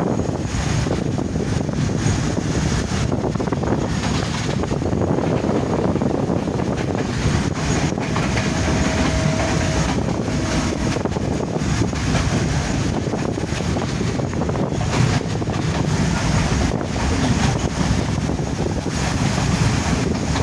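Passenger train running along the track: a steady rumble of wheels and carriage, with wind buffeting the microphone. A faint whine comes and goes about nine to eleven seconds in.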